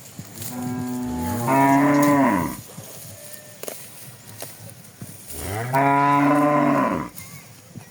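Cattle mooing: two long moos about three seconds apart, each rising in pitch at the start and falling away at the end.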